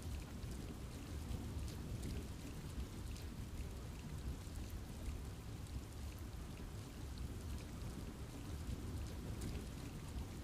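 Steady rain falling in a forest, a continuous wash with scattered drops ticking on leaves.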